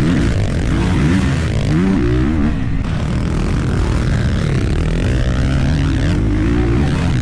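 Dirt bike engine being ridden, its revs climbing and dropping again and again as the throttle is worked, over a steady low rumble.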